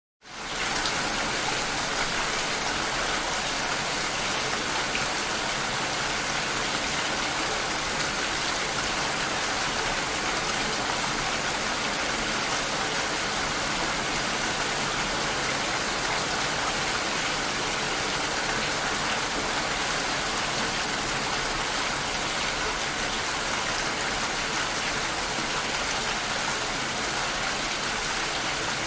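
Steady rain heard through a glass door, a dense even hiss. It rises quickly out of silence at the very start, then holds level throughout.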